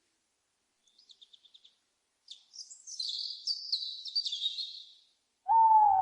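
A small bird gives a quick run of faint high notes, then sings a busy, high-pitched twittering phrase for almost three seconds. Near the end a single loud, lower hoot-like owl call begins, with a slight dip in pitch.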